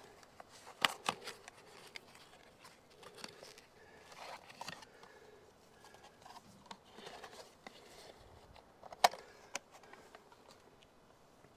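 Hand tools and metal parts being handled while working on an air-conditioner unit: scattered clicks, rustling and scraping, with two sharp clinks about a second in and two more near the end.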